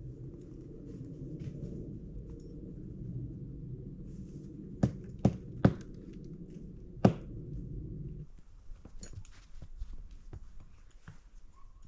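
Four sharp knocks, the last the loudest, over a steady low rumble that cuts off about eight seconds in; faint small ticks and crunches follow.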